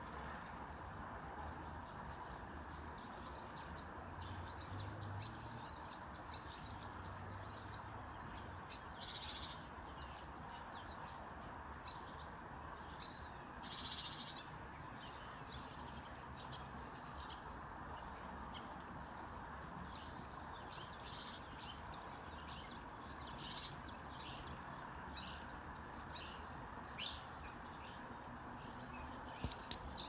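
Small garden birds chirping with short, high calls, scattered through and coming thicker toward the end, over a steady background hiss.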